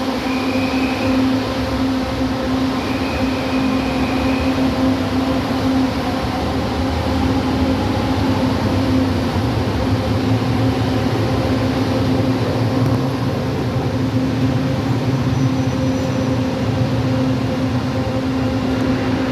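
LRT Line 2 train running: a steady rumble with a held humming tone, and two brief high whines in the first few seconds.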